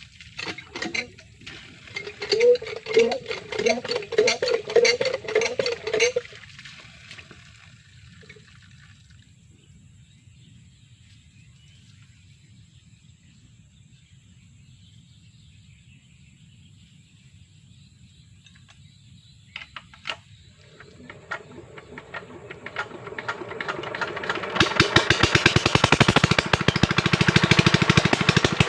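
A water pump's engine starting about twenty seconds in, then running loudly with a fast, even beat. Before that there are voices and clicks, then a long quiet stretch.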